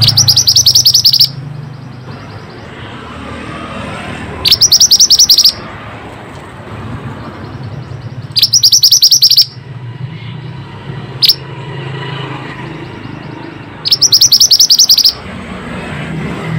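Mantenan bird song in four loud, rapid high trills. Each lasts about a second, and they come every four to five seconds, with a single short chip between the third and fourth. This is a lure song, played to set caged mantenan birds singing.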